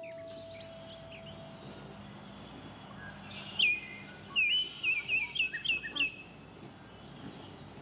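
Outdoor ambience with a small bird calling: one sharp chirp about three and a half seconds in, then a quick run of about six chirps, the loudest sounds here.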